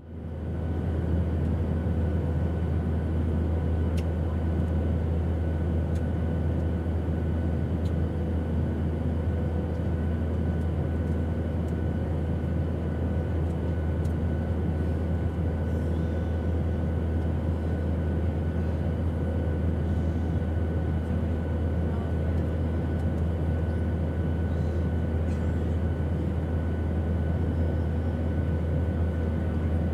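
Airplane engine drone: a steady, even rumble heaviest in the low bass, with a few faint steady whining tones above it. It fades up within the first second and then holds unchanged.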